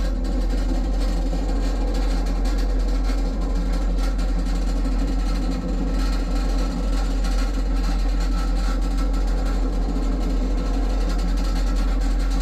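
Steady low rumble and running noise of a train travelling along the track, even and unbroken.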